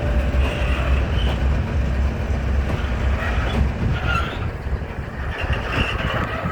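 A diesel-hauled train rolling past: a class 311D locomotive's low engine rumble, with wheels running over the rails. The rumble eases off about four seconds in, and brief higher squeals come from the wheels.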